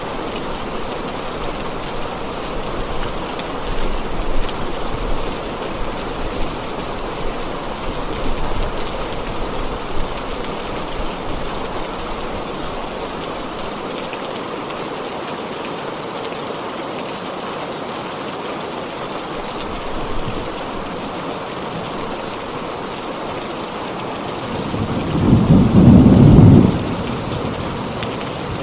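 Heavy rain falling steadily, with a loud, low rumble of thunder lasting about two seconds near the end.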